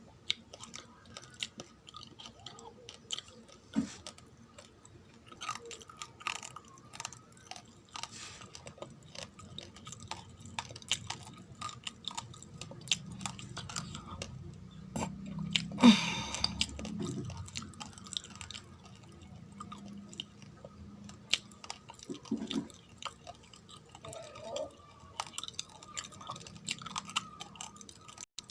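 Raw, uncooked rice grains being chewed close to the microphone: a steady run of small sharp crunches, with one louder crunch about sixteen seconds in.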